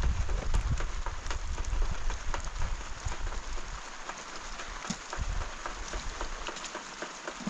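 Rain falling: a steady hiss with many small ticks of drops striking. A low rumble under it dies away about three seconds in.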